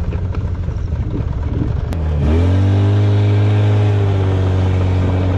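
Snowmobile engine running at a low steady idle, then revving up sharply about two seconds in and holding a louder, higher steady note under throttle.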